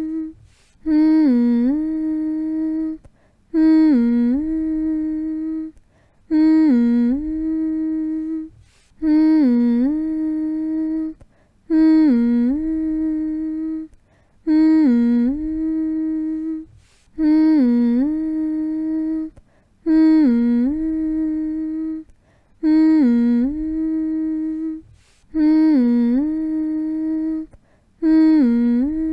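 A person humming the same note over and over to soothe a baby to sleep: each hum opens with a short dip down in pitch and back up, then holds steady for about two seconds before a brief pause, repeating roughly every two and a half to three seconds.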